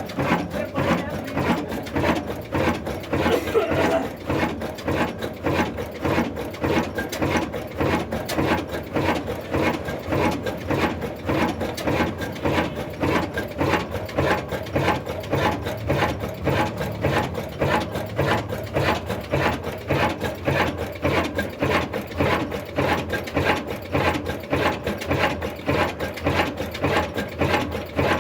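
Old Ruston Hornsby single-cylinder diesel engine running steadily with an even, rhythmic beat, driving a flour mill by belt.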